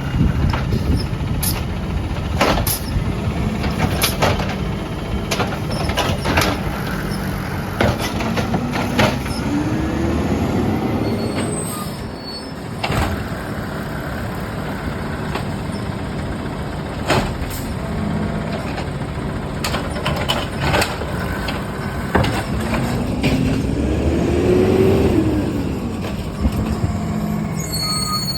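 Peterbilt 320 garbage truck's diesel engine running, revving up and back down twice, with repeated sharp knocks and clanks over it.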